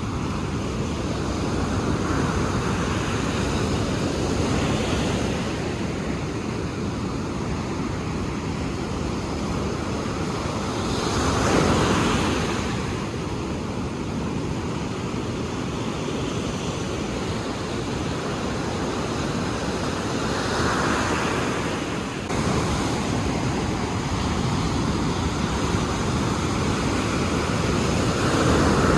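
Ocean surf: waves breaking and washing in a continuous roar that swells as each wave comes in, the biggest about twelve seconds in and another near the end.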